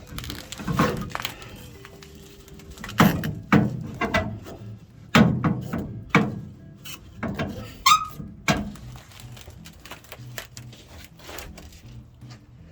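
Irregular knocks and clunks of hand work on a truck's underside, about nine over the stretch, some sharper than others, with music playing in the background.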